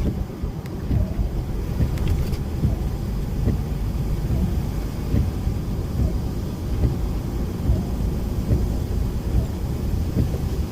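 DAF lorry's diesel engine and tyre and road noise heard from inside the cab while driving: a steady low rumble.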